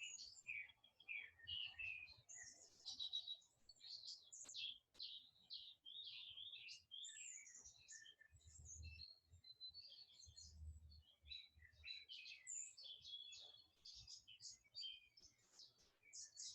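Faint birdsong: many quick chirps and twittering calls overlapping without a break.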